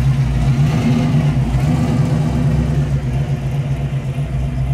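Car engine idling steadily close by, a loud, even low drone.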